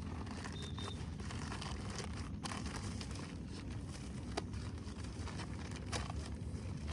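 Camping gear being handled and packed: scattered sharp clicks and rustling over a steady low rumble.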